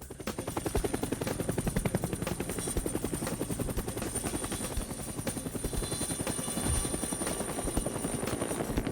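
Helicopter rotor sound effect: a fast, steady chopping beat that fades in at the start, with a thin high whine above it.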